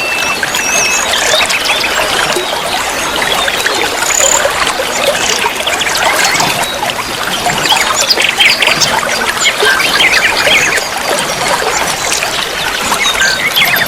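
Water trickling and splashing steadily, with many small songbirds chirping and whistling over it in quick, overlapping phrases.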